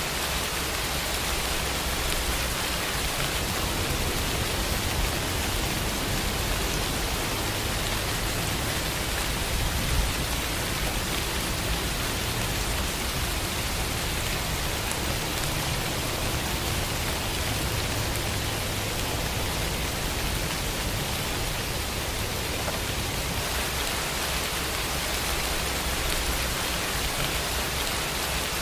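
Steady, continuous rain falling, an even hiss of many drops with no distinct individual events.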